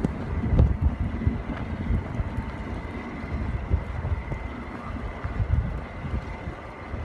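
Blizzard wind buffeting the microphone in uneven gusts, with a low rumble underneath and a faint steady high tone.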